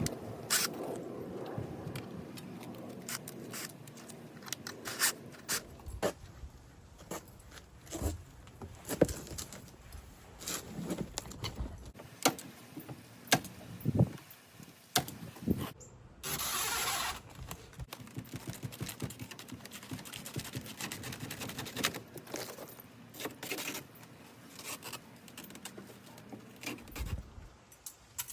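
Wooden crib frame and boards being handled and fitted into the back of a truck: scattered knocks, clicks and clatter of wood and metal parts, with one brief noisy burst about sixteen seconds in.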